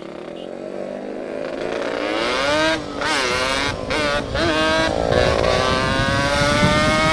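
Yamaha RX King single-cylinder two-stroke engine through a bored-out expansion-chamber exhaust, accelerating hard: the pitch climbs, breaks off briefly several times as the gears change and climbs again, then holds a high, steady note near the end. The sound grows louder throughout.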